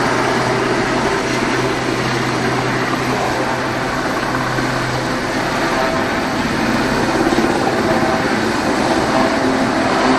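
Rescue helicopter flying overhead, its engine and rotor making a steady loud noise, with a low hum that drops out about halfway through.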